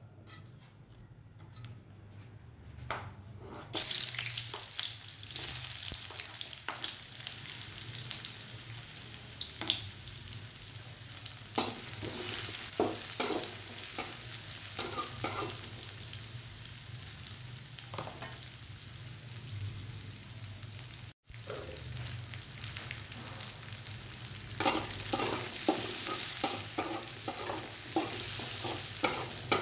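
Shallots and garlic frying in hot oil in a metal wok. It starts quiet, then a sudden loud sizzle comes in about four seconds in as they hit the oil. A metal spatula scrapes and taps the pan as they are stirred, and near the end the sizzle grows louder with quick scraping strokes as chillies are stir-fried.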